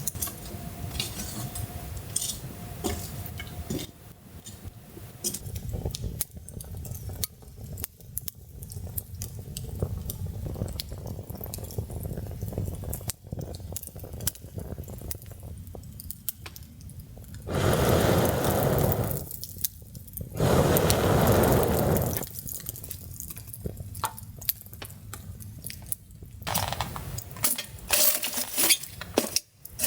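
Camp cookware being handled: scattered light clinks and knocks of pots and utensils, with two loud stretches of steady rushing noise, each about two seconds long, a little past the middle.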